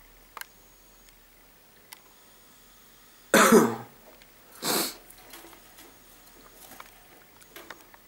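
A person coughs twice, a loud cough about three seconds in and a shorter one about a second later. Faint scattered clicks before and after.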